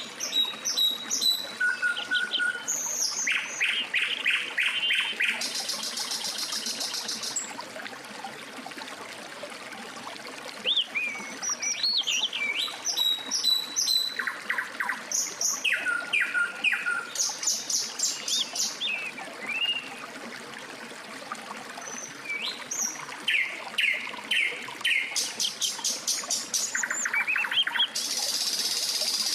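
Several songbirds singing: rapid trilled phrases, gliding whistles and chirps following one another, with a high, fast trill about six seconds in and again near the end.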